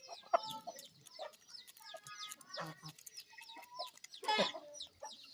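Aseel chickens clucking, with many short, high, falling chirps throughout and a louder call about four seconds in.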